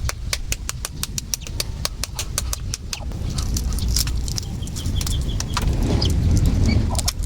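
Rapid sharp clicking, several clicks a second, through the first half, with a short run of high duckling peeps about four seconds in, over a steady low rumble.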